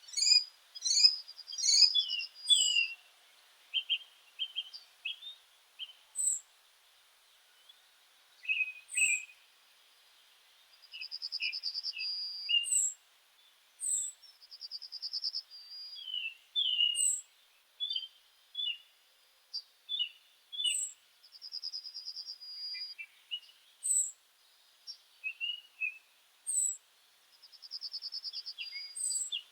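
Several birds singing together, with short high chirps repeated every second or two and varied lower notes. A trill of about a second and a half recurs every few seconds.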